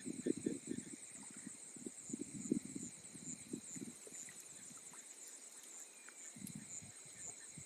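Insects chirping steadily, a fast pulsing high trill, over irregular low knocks and thuds that come in clusters, most in the first few seconds and again near the end.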